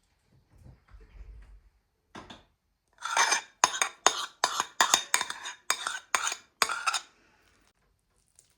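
A metal utensil clattering against a dish in a quick series of about a dozen strokes, two or three a second, like stirring or beating in a bowl. The strokes start about three seconds in and stop about seven seconds in, after a few faint kitchen clinks.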